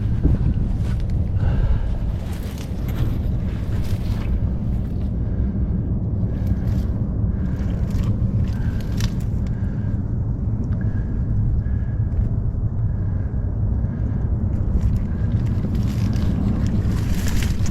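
Wind buffeting the microphone as a steady low rumble, with a faint short high chirp repeating about once a second through the middle.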